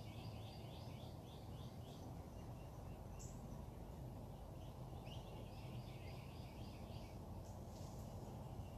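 A songbird singing a quick run of repeated notes, about four a second, then a second run a few seconds later, with a short high chip in between. Under it runs a steady low background rumble.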